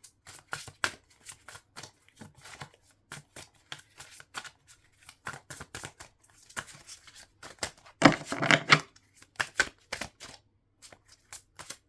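Tarot cards being shuffled by hand: a run of quick card clicks and flicks, with a louder, denser burst of shuffling about eight seconds in.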